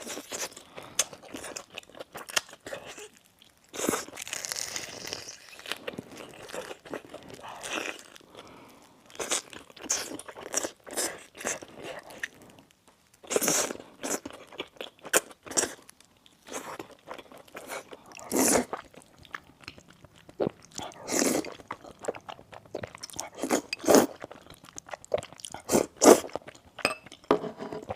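Close-miked crunchy food being bitten and chewed: irregular clusters of sharp crunches with short quieter pauses between mouthfuls.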